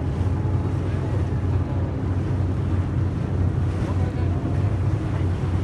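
A yakatabune pleasure boat under way, its engine running with a steady low drone, with wind on the microphone and water noise over it.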